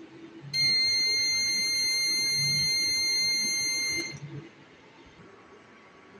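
Electronic buzzer of a Megger MIT310 insulation tester sounding one steady, high-pitched tone for about three and a half seconds, then cutting off suddenly.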